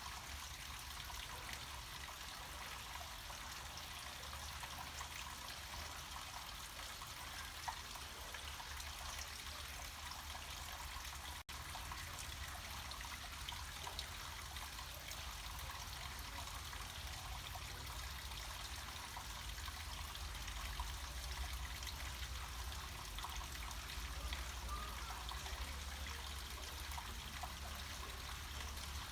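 Water trickling and splashing down a small mountain stream in a steady, continuous wash, with a low rumble underneath. A split-second dropout about eleven seconds in.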